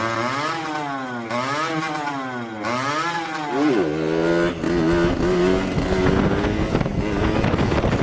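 Motorcycle engine revving up and down three times, then running at a steadier, higher speed from about four seconds in.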